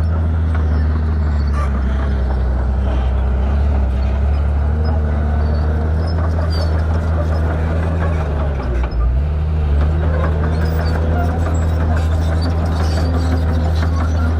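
Shantui bulldozer's diesel engine running steadily under work. About two-thirds of the way through, its pitch and level drop briefly, then pick back up.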